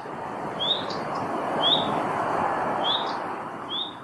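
A bird giving a short rising chirp about once a second, four times, over a steady rushing noise that swells and then fades.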